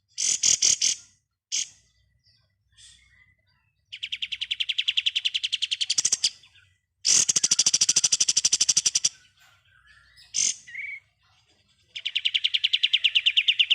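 Kapas tembak songbird singing its rapid 'ngebren' song: a short burst near the start, then three long machine-gun trills of fast, evenly repeated high notes, each about two seconds long, with brief single calls between them.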